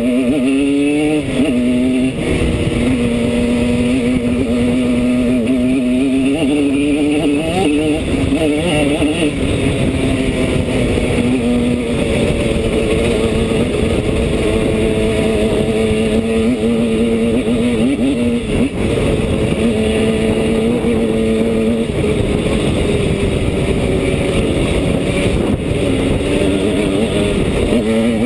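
Simson S51 enduro's tuned single-cylinder two-stroke engine running under way. The revs climb in quick steps through the gears near the start, then hold fairly steady, dropping off and picking up again several times.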